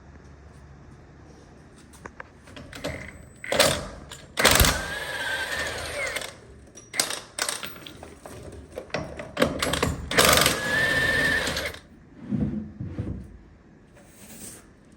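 Power tool running in short bursts, with two longer runs of about two seconds each that rattle rapidly under a steady whine.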